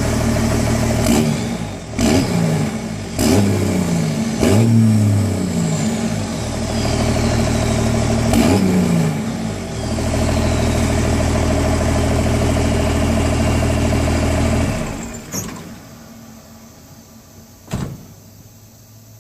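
1989 Cummins 5.9-litre inline-six diesel running through a new exhaust, revved in about five quick blips over the first nine seconds, then running steadily until it stops about fifteen seconds in. A single short knock comes near the end.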